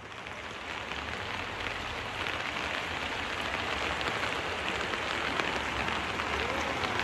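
Heavy rain falling steadily, a dense patter on wet ground, swelling a little over the first two seconds.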